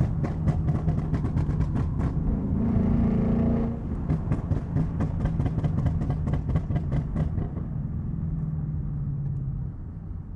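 2020 Mustang's V8 exhaust, run through an H-pipe with the resonator deleted, crackling and popping rapidly over its rumble on a pop/ghost-cam tune. There is a brief smoother rev about three seconds in. The crackling stops about eight seconds in, leaving the engine running steadily.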